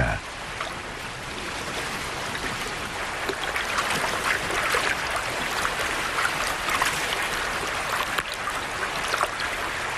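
River water flowing steadily, with a few faint splashes.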